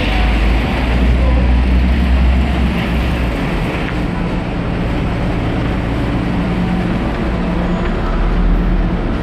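Street traffic noise with a vehicle engine idling, a steady low hum.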